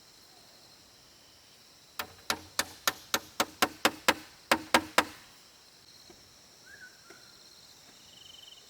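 A hammer striking about a dozen quick blows, roughly four a second with a brief pause before the last three, typical of driving a nail. A steady chirring of insects runs underneath.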